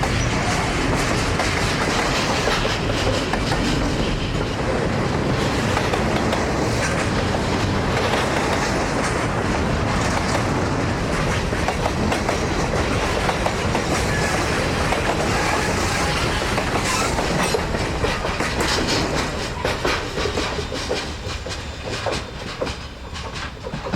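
Freight train cars rolling past, wheels clicking over rail joints above a steady rumble that fades away over the last few seconds.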